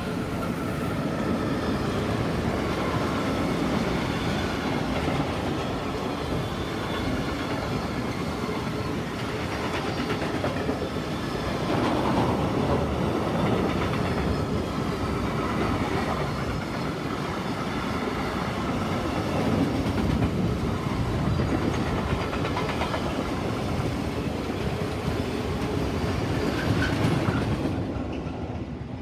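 Freight train of tank wagons, hauled by two electric locomotives, rolling past: a steady din of steel wheels running on the rails that dies away near the end as the tail of the train goes by.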